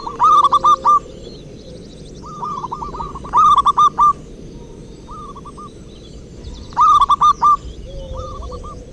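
Zebra dove (perkutut) cooing: repeated phrases of quick rolling coo notes, each phrase about a second long, loud ones near the start, in the middle and about seven seconds in, with softer phrases between.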